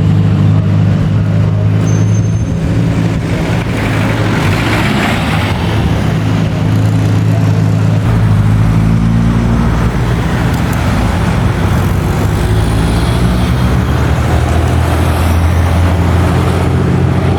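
Classic car engine running at low, steady revs: a deep, even rumble that barely changes pitch, with some higher hiss.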